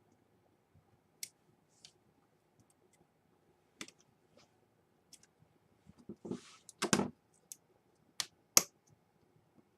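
Small, sharp clicks and taps of laptop parts being handled during a repair on a Dell Inspiron 11, coming a few at a time, with a short rustle about six seconds in and the loudest clicks near the end.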